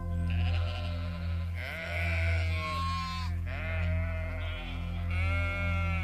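Sheep bleating several times in quick succession, each call long and quavering, over steady low background music.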